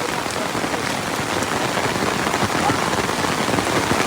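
Heavy rain falling steadily on surfaces: a dense, even patter with many small drop ticks.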